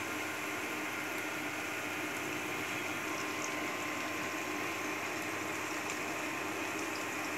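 Chopped onion and beaten egg sizzling in hot oil in a frying pan: a steady frying hiss.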